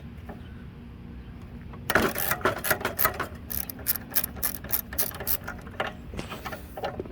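Socket ratchet clicking rapidly as the 10 mm bolts holding the mower's carburetor are turned out, starting about two seconds in.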